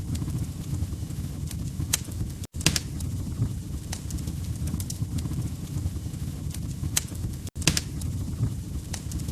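Log fire in a fireplace crackling: a steady low rumble of burning with sharp snaps and pops scattered through it. The sound drops out for an instant twice, about five seconds apart.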